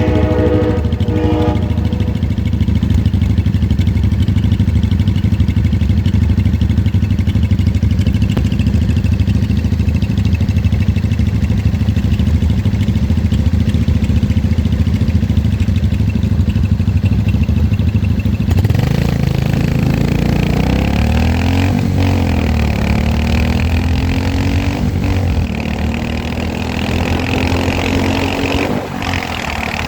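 Motorcycle being ridden: a steady low engine and wind rumble, then, about two-thirds of the way in, the engine note rises and falls several times as it accelerates and eases off.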